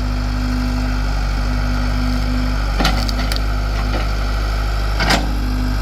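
Backhoe engine running steadily, with sharp knocks a little before halfway, again shortly after, and near the end as the bucket knocks dirt off a large root ball.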